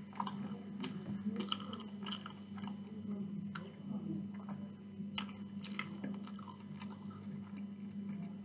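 A person chewing food with the mouth closed right at a microphone: wet smacks and clicks at irregular intervals, over a low steady hum.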